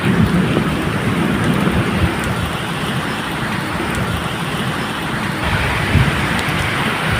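Steady medium rain falling, with a low, irregular rumble of thunder underneath.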